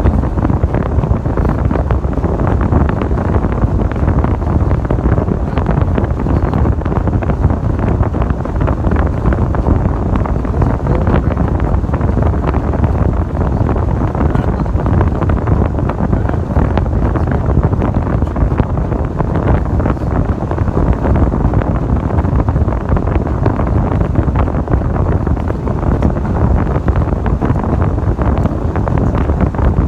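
Steady, loud wind noise buffeting the microphone, a continuous low rumble with no distinct events.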